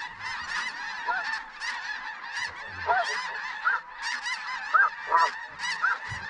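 A large flock of snow geese calling: a dense, unbroken chorus of many overlapping high, short honks, with a few louder single calls from nearer birds standing out.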